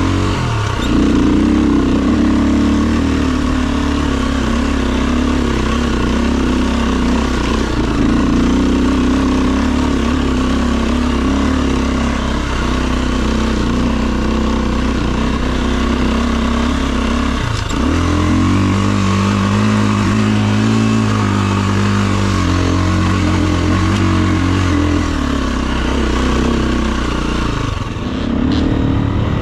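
Dirt bike engine running under way off-road, its note holding and shifting with the throttle. Twice the pitch dips sharply and then climbs back, about half a second in and again around seventeen seconds in. The level drops briefly near the end.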